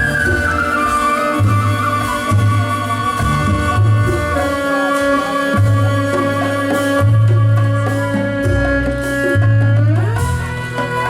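Live ensemble music: sustained melody notes over a pulsing low bass line with light percussion, the whole sound sliding up in pitch about ten seconds in.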